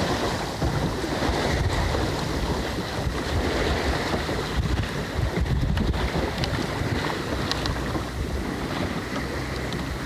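Wind buffeting the microphone over water rushing and splashing along the hull of a small sailboat under way.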